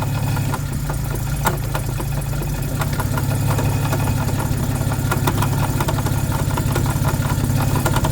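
Jaguar XK150's straight-six engine running steadily with its Borg-Warner DG 250 automatic transmission, overlaid by rapid, uneven clicking and knocking, with one sharp click about a second and a half in. This is the unexplained bad noise from the transmission.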